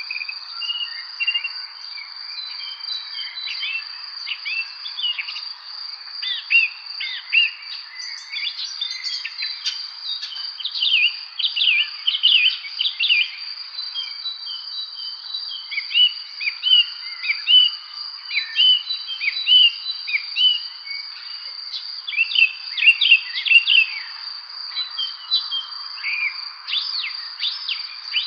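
Songbirds in an evening spring chorus, calling in many short, overlapping chirps and quick trills. Underneath runs a continuous high-pitched steady trill.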